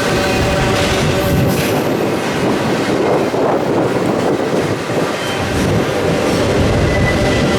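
Freight train rolling past at close range: a loud, steady noise of cars and wheels on the rails, with faint thin squealing tones from the wheels.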